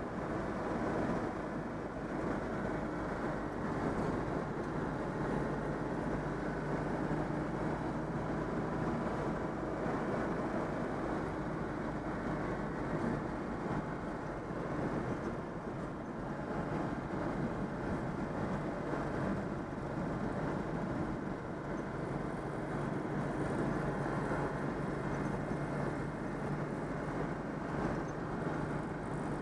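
Citroën 2CV's air-cooled flat-twin engine running steadily while the car drives along, mixed with road noise, freshly overhauled.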